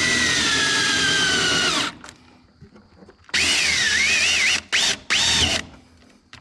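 Power drill boring holes through the sheet metal of a car's inner fender, its motor whine slowly sagging in pitch under load before stopping about two seconds in. A second run starts about three seconds in, its pitch dipping and recovering as the bit bites, followed by two short bursts.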